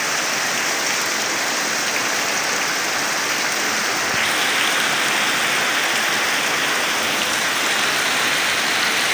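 Heavy rain falling as a steady hiss that grows a little louder about four seconds in.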